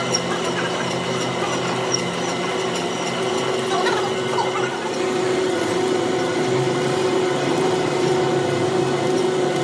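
A machine tool running steadily with a constant hum and faint intermittent clicks and scrapes.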